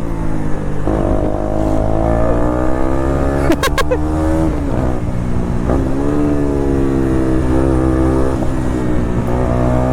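Motorcycle engine with a loud exhaust running on the move, its pitch rising and falling with the throttle and gear changes, over wind rumble on the microphone.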